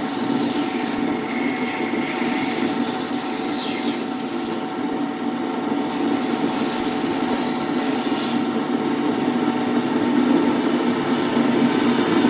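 A power tool abrading wood: a steady motor hum under a continuous rasping noise whose pitch sweeps up and down as the tool works across the surface.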